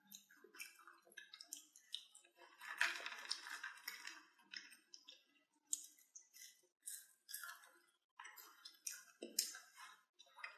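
Children chewing crispy French fries: irregular crunching and crackling, densest about three seconds in.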